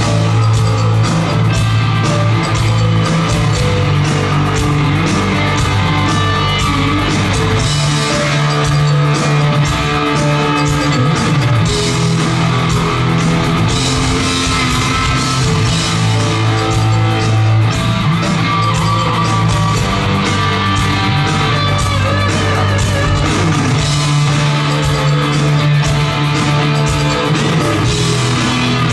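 A rock band plays an instrumental passage without singing: electric guitars over bass and drums at a steady loudness.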